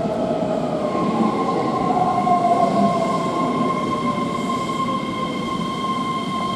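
Keihan electric train moving along the platform: a steady rumble of wheels on rail with a motor whine falling in pitch, then from about a second in a steady high-pitched wheel squeal.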